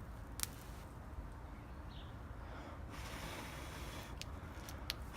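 Small fire of dry grass tinder burning, with a few sharp crackles over a low hiss.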